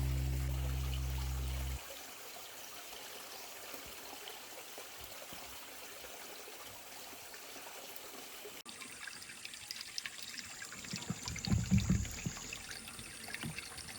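A shallow valley stream trickling steadily. A held music chord fades out and stops just under two seconds in, and a few dull low bumps come near the end.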